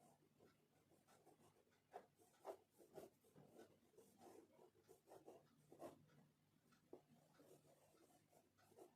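Faint scratching of oil pastel strokes on paper, short and irregular, over a low steady hum.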